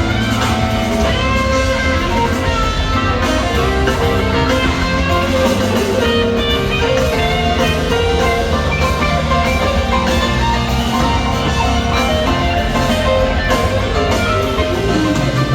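Rock band playing an instrumental jam: quick electric guitar lines over drum kit and bass, with no singing.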